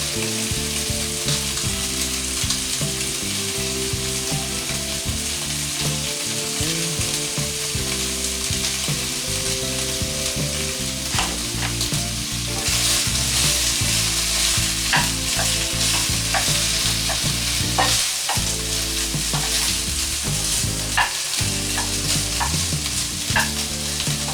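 Chicken breasts and red onion sizzling in olive oil in a frying pan, stirred with a utensil. The sizzle is steady and grows brighter about halfway through, with sharp clicks of the utensil against the pan in the second half.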